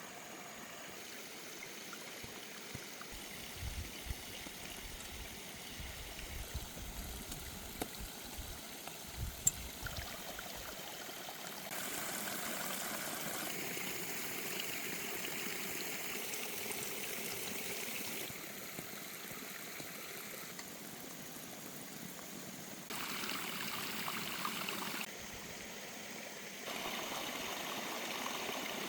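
Running water of a stream, a steady rush whose loudness steps up and down several times, with a few small knocks and low thumps in the first ten seconds.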